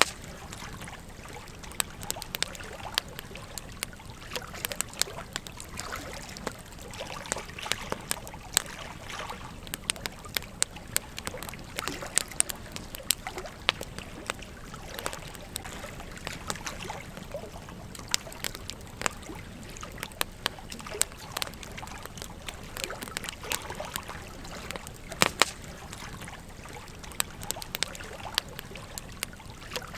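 A campfire crackling with frequent irregular pops and snaps over the steady trickle of a gentle stream.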